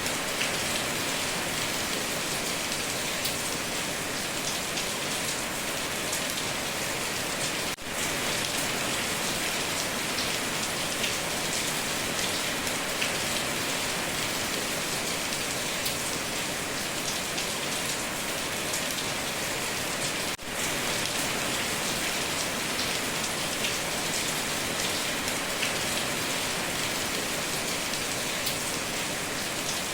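Heavy rain drumming steadily on a tin roof: a dense, even hiss of drops flecked with fine ticks. It cuts out for an instant twice, about 8 and 20 seconds in.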